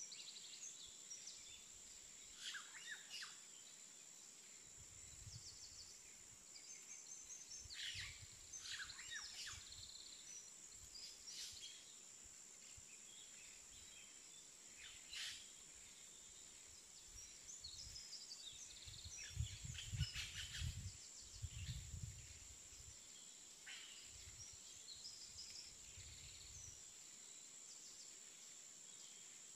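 Faint birds chirping in short, scattered calls over a steady high-pitched whine, with a few dull low thumps, the loudest about two-thirds of the way through.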